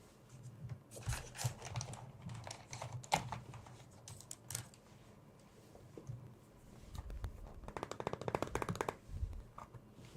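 Close-miked light tapping and clicking on small hard objects, irregular at first, then a fast run of fine clicks near the end.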